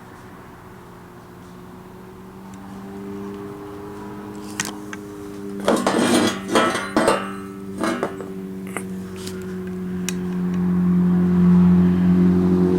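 Welded pieces of scrap steel plate being handled and set down, clattering and clinking for a couple of seconds about halfway through. Under it runs a steady low mechanical hum that grows louder near the end.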